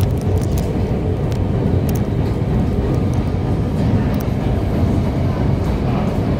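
MTR Disneyland Resort Line train running, a steady low rumble with faint scattered clicks.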